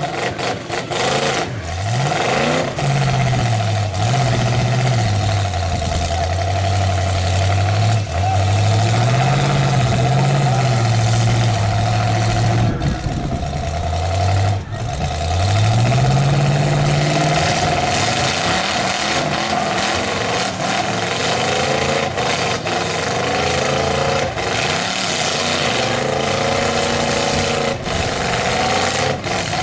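Demolition derby car engines revving hard, their pitch repeatedly rising and falling as the cars push against each other.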